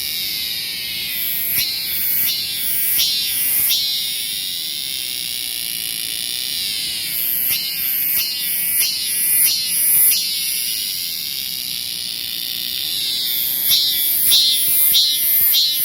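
Cicada singing, a loud steady high buzz broken every few seconds by runs of quick pulses, about two a second.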